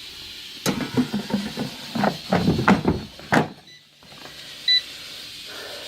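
Metal air-fryer basket clattering as it is handled and slid back into a Culinary Edge digital air fryer, ending in a clunk as it seats, followed about a second later by a short electronic beep from the control panel.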